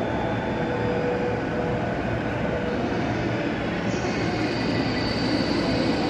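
Commuter electric train rolling slowly past on the tracks, a steady rumble of wheels on rail. A thin high whine comes in about two thirds of the way through.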